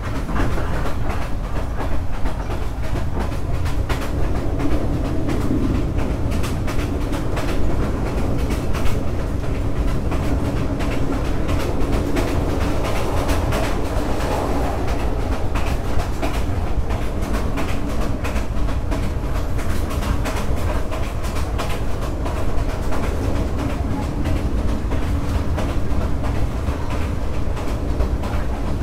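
Vietnam Railways SE19 passenger train running on the rails: a steady rumble of wheels on track with frequent clicks and knocks, the train's clickety-clack.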